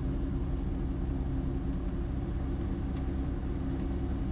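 Ikarus C42 light aircraft's engine running steadily at low power, a constant drone with no change in speed, while the aircraft waits lined up on the runway.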